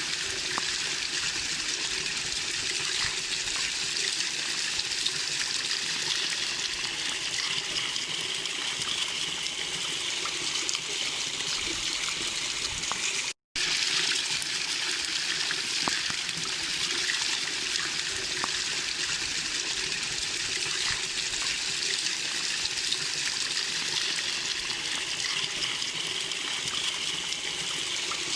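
Small waterfall splashing and rushing steadily, with a split-second dropout in the sound about halfway through.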